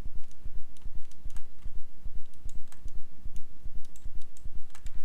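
Computer keyboard keys and mouse buttons clicking irregularly, a scattering of light clicks, over a steady low, pulsing rumble.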